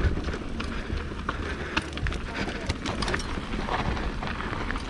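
Mountain bike rolling over a rough dirt trail: a steady rumble with irregular clicks, knocks and rattles from the bike.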